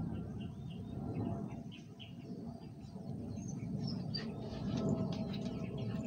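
Several birds chirping and calling in short, high notes that come thicker in the second half, over a steady low rumble.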